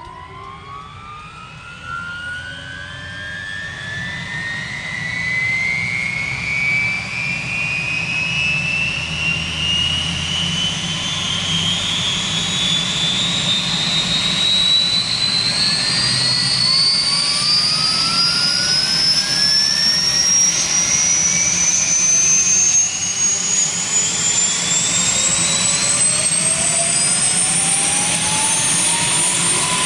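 Kaman K-MAX helicopter's turboshaft engine starting up: a turbine whine rising steadily in pitch and growing louder, levelling off near the end.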